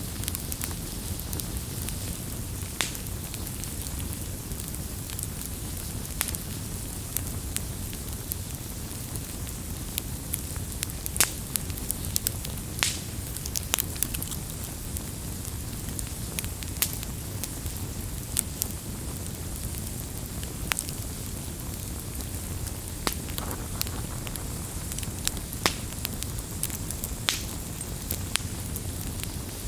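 Wood bonfire burning, with a steady low rumble and hiss under frequent irregular crackles and occasional sharper pops.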